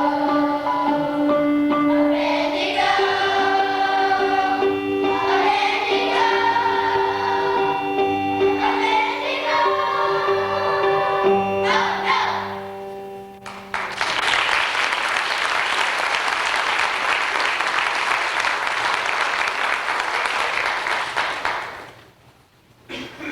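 A choir sings with instrumental accompaniment. The song ends about 13 seconds in, and audience applause follows for about eight seconds, then dies away.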